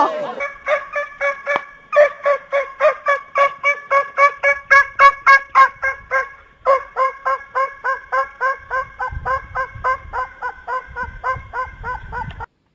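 A large domestic fowl calling in a fast, even series of short, same-pitched notes, about four a second. There is a brief pause about halfway through, and the calls cut off abruptly near the end.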